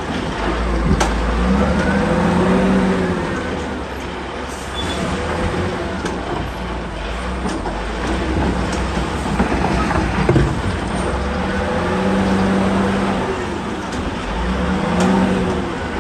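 Excavator's diesel engine running under load, its pitch swelling up and back down twice as the machine works, with a few sharp knocks.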